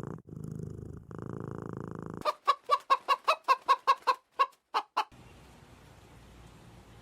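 A cat purring steadily for about two seconds, then a chicken clucking in a quick run of about a dozen short clucks, about four a second.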